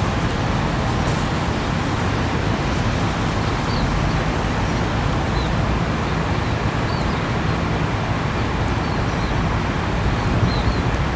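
Steady road traffic noise, with a few faint, short bird chirps scattered through it.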